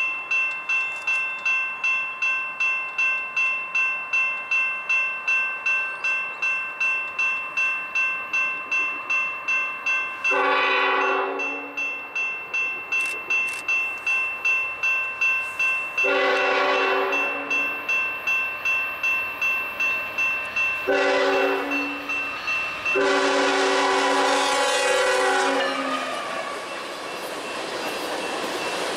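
Grade crossing bell ringing about twice a second while a CN diesel freight locomotive approaches and sounds its horn four times, long, long, short, long, the standard warning for a road crossing. Near the end the bell has stopped and the loaded tank cars roll through the crossing with steady wheel noise.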